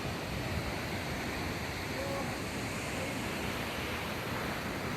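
Kegon Falls, a waterfall with a drop of about 97 m, rushing as a steady, even noise of falling water.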